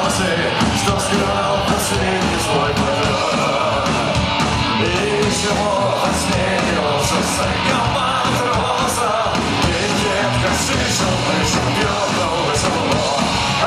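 Punk rock band playing live, loud and steady: distorted electric guitars and drums with regular cymbal strikes, under shouted singing.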